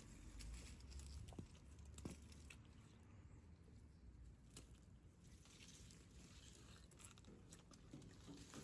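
Near silence: faint scattered clicks and light rustling, with a low rumble in the first second or so.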